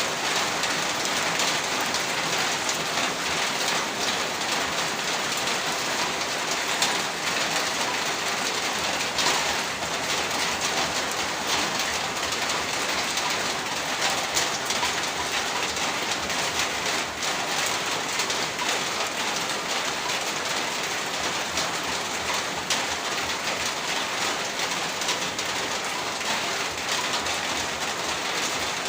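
Heavy rain falling steadily, a dense even hiss of rain with scattered sharper drop impacts.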